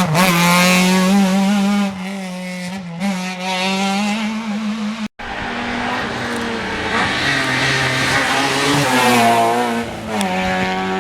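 Rally car engines at high revs: one car runs hard with a lift about two seconds in. After an abrupt cut about five seconds in, another car accelerates, its engine pitch climbing and then dropping at a gear change near the end.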